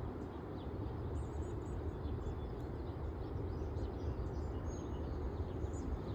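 Outdoor ambience: faint, high, short bird chirps scattered over a steady low rumbling noise.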